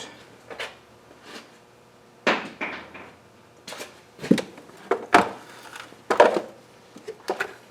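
Grimy bolts and small metal parts being handled and worked loose: a string of irregular clunks and scrapes, the loudest a little over two seconds in and again past the five- and six-second marks.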